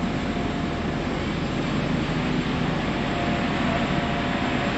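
Car ferry under way: its engines make a steady low rumble beneath an even rushing noise, with a faint steady hum above.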